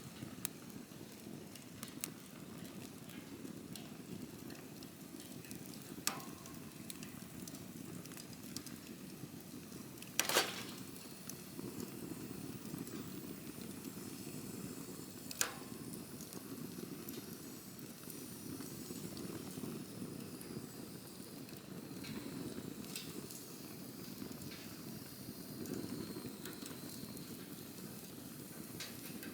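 Campfire burning: a steady low rush of flames with scattered sharp crackles and pops from the wood. The loudest pop comes about ten seconds in, with others around six and fifteen seconds.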